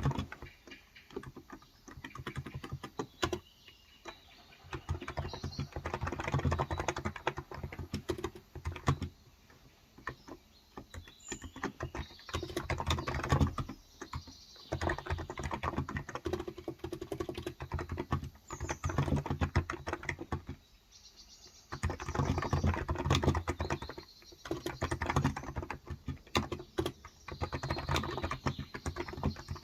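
Typing on a COX Endeavour tenkeyless keyboard with 35 g electrostatic capacitive switches: runs of quick keystrokes broken by short pauses. Faint bird chirps are heard now and then in the background.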